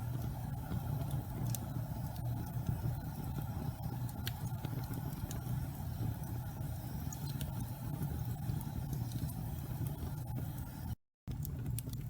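Wood fire burning in a fireplace: a steady low rumble with scattered sharp crackles and pops. The sound cuts out completely for a moment near the end.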